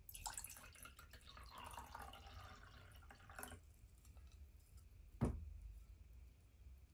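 Water running or pouring for about three and a half seconds, then a single sharp knock.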